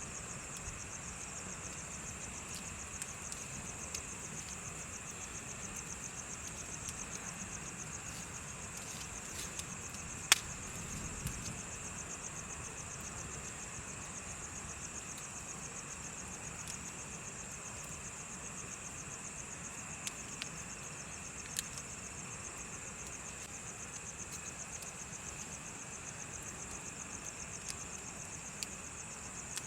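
Crickets chirping in a steady fast trill, over the scattered crackles and pops of a bonfire, with one sharp loud pop about ten seconds in.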